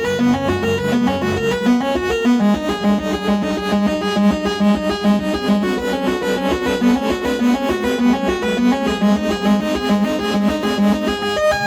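Eurorack modular synthesizer playing a fast sequence of short pitched notes, with a low sustained tone underneath that drops out about a second and a half in.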